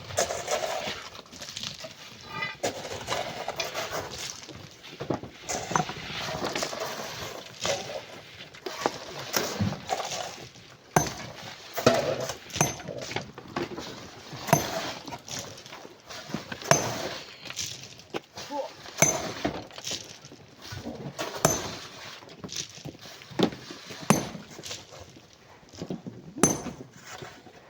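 Hand tools striking and breaking compacted sand and stone, with rubble clattering down. The sharp knocks repeat roughly every two seconds, with smaller clinks between them.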